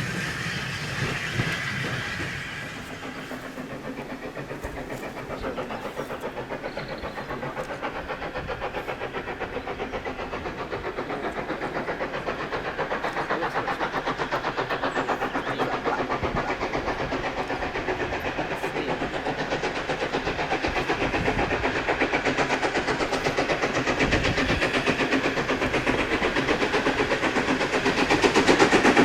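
Steam locomotive approaching with a fast, even exhaust beat that grows steadily louder.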